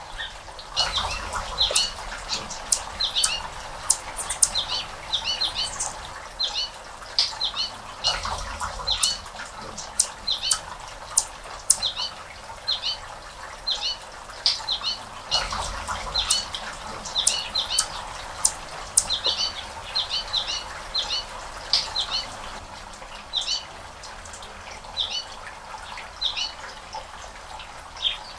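Small birds chirping continually, short sharp high chirps coming several times a second, over a steady soft hiss.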